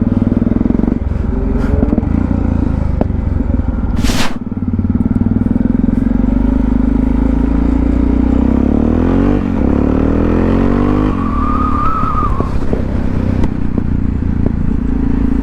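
Motorcycle engine running steadily under way, picked up by a helmet microphone, with a brief loud crackle about four seconds in. Past the middle the engine pitch sweeps up and down for a couple of seconds before settling again.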